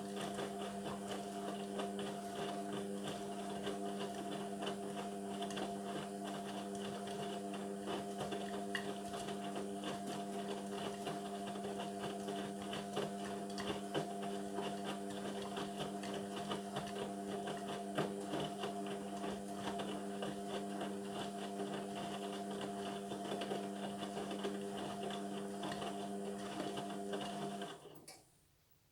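Indesit washing machine running mid-wash on a synthetics programme: a steady motor hum with faint ticking, which cuts off suddenly near the end.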